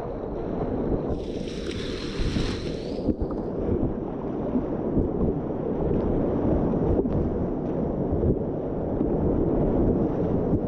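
Whitewater rapids of the White Salmon River rushing past a kayak, with wind buffeting the microphone throughout; about a second in, a higher hiss of water rises for about two seconds and then stops.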